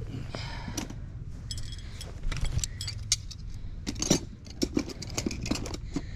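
Hard objects clinking and knocking against each other in an irregular run of clicks, busiest and loudest about four seconds in, over a steady low rumble.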